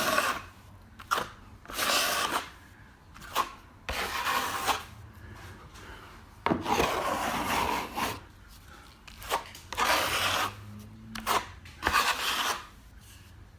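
Steel plastering knife scraping and smoothing filler over a repaired crack in a drywall ceiling: a series of irregular rasping strokes, some brief and one lasting nearly two seconds, with short pauses between them. This is the scrape-back and polishing stage of the repair.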